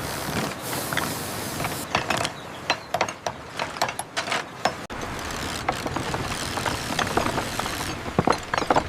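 Construction work: irregular sharp clicks and knocks over steady background noise, with a quicker run of knocks near the end.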